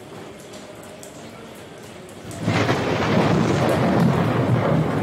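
Rain falling on a wet concrete yard, a steady patter; a little over two seconds in, a much louder rushing noise sets in suddenly and holds.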